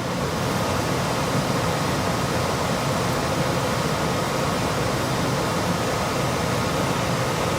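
ICP Comfortmaker gas furnace's indoor blower running steadily at full speed, a loud even rush of air with a low motor hum, switched on by a jumper from R to G on the control board to test the fan.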